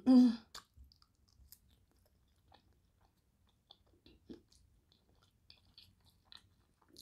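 Close-miked chewing and small wet mouth sounds of a person eating soft stuffed turkey leg and rice, with faint scattered ticks that fit a fork on the food.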